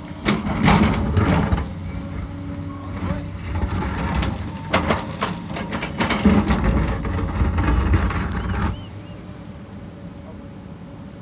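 Hyundai excavator at work: the diesel engine runs under load while the bucket scrapes and knocks against rock and earth, with many sharp knocks. The noise drops away suddenly near the end, leaving a quieter steady background.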